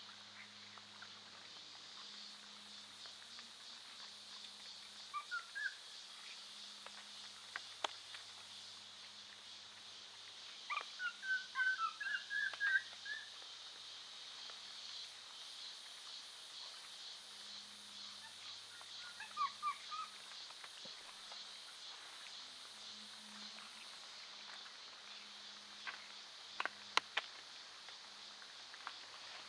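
Short chirping animal calls in three bursts, the longest about ten seconds in, over a steady high hiss of forest background, with a few sharp clicks.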